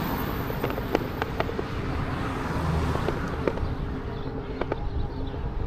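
Outdoor wind and road noise rumbling on the microphone during an e-bike ride, with a handful of light, sharp clicks scattered through it.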